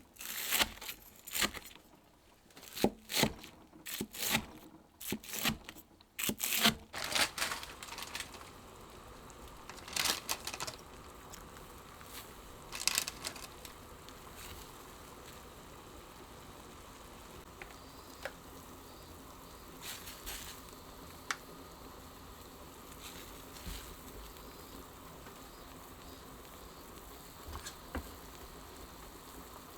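Kitchen handling noises: a quick run of short noisy bursts over roughly the first dozen seconds, then a low steady background with a few faint clicks.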